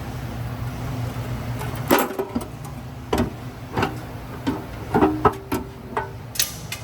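Irregular metallic clinks and knocks, about six of them, some ringing briefly, from metal parts and tools being handled under a car. A steady low hum runs under the first two seconds.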